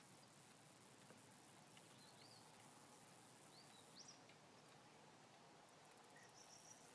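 Near silence, with a few faint, short bird chirps scattered through it.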